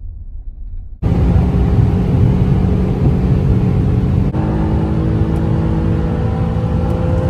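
Infiniti G37 sedan's V6 engine going suddenly to hard acceleration about a second in. A short break a little past four seconds marks an upshift, and the engine note then slowly climbs again.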